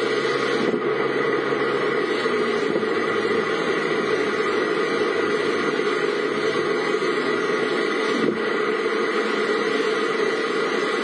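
Steady driving noise of a car on the road: engine hum with tyre and wind noise, unchanging in level.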